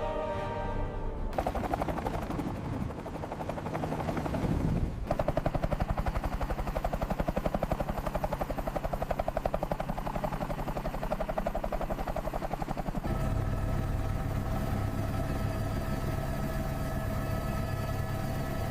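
Helicopter rotor chopping in rapid, even beats. About thirteen seconds in, a steady engine whine and a low hum join the chop.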